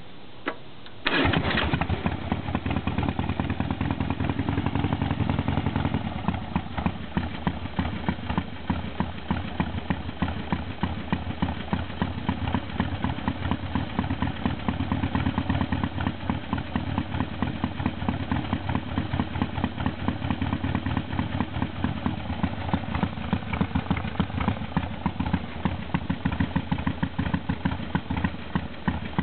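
1978 Harley-Davidson Sportster's air-cooled V-twin starting from cold: it catches about a second in, runs fast for a few seconds, then settles to a lower, uneven idle with irregular pulses.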